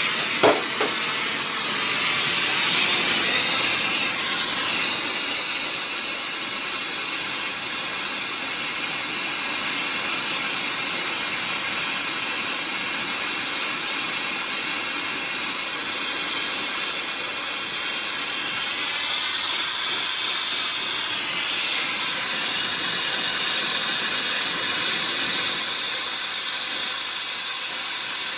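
Portable oxy-fuel brazing torch (Ambro Oxyset Mobile) burning with a steady, loud hiss while heating 7/8-inch copper pipe, with a short sharp click about half a second in.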